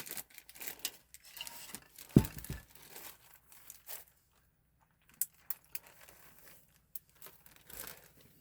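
Handling noise from a computer being taken apart: scattered clicks and rattles, with one loud knock about two seconds in.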